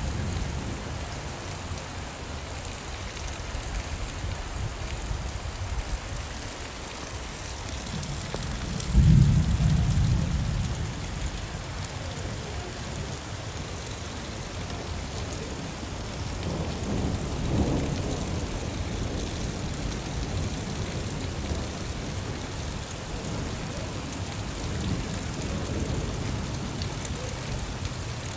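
Steady rainfall with rolling thunder: a loud, deep thunderclap about a third of the way in that rumbles away over a few seconds, and a fainter rumble past the middle.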